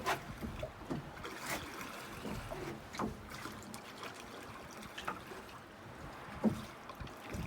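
Sea water trickling and dripping as a fishing net is hauled aboard, with scattered knocks every second or two. The loudest knock comes about six and a half seconds in.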